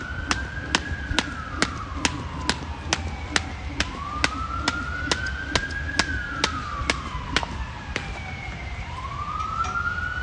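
Weighted jump rope slapping the ground about twice a second in a steady skipping rhythm, stopping about seven seconds in. Behind it, an emergency-vehicle siren wails slowly up and down.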